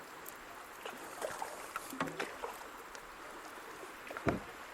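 Kayak paddling on a creek: running water with scattered splashes and light knocks of paddle strokes, and a louder thump about four seconds in.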